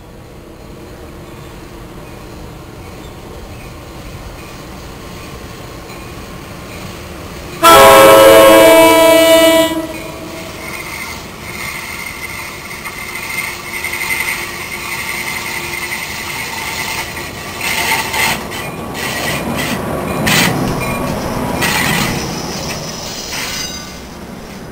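NJ Transit train led by an ALP-44 electric locomotive pulling into the station. Its rumble grows, then a loud horn blast of several notes sounds for about two seconds, some eight seconds in. After that the coaches roll past with wheel rumble, a high squeal and a few sharp clicks over the rail joints.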